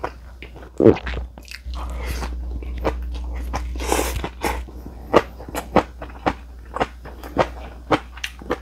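Close-miked crunchy chewing of seasoned mung bean sprouts: a slurp as the mouthful of strands is drawn in about four seconds in, then crisp crunches about twice a second.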